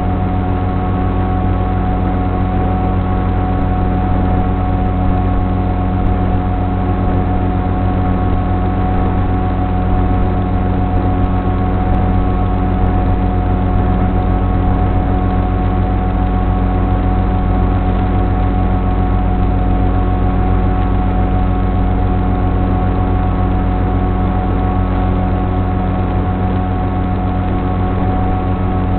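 Electric motor and propeller of a Sonic Model AR Wing FPV flying wing running at a steady throttle, a constant whine with several held tones over a rushing noise.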